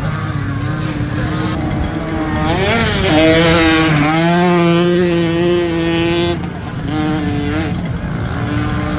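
Small youth dirt bike engines revving as the bikes ride past, the pitch rising and falling with the throttle. They are loudest from about three to six seconds in, then cut back and rev again briefly.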